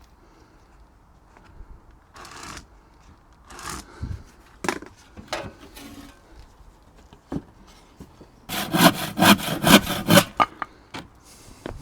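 Hand saw cutting through a piece of wood: a few slow, separate strokes, then a quick, even run of about ten strokes near the end, the loudest part.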